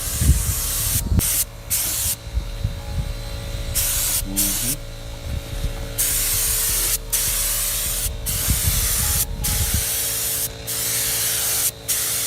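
Air paint spray gun hissing as it lays paint on a car body, in passes broken by brief gaps each time the trigger is let off. A low rumble sits underneath until near the end.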